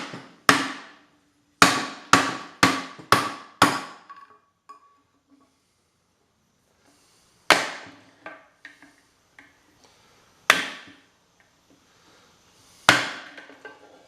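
Hammer striking a large flathead screwdriver used as a chisel, with sharp ringing blows: a quick run of about six strikes, then three slower single blows. It is breaking apart a seized plastic pump impeller, stuck on its shaft because rust has split its dielectric sleeve.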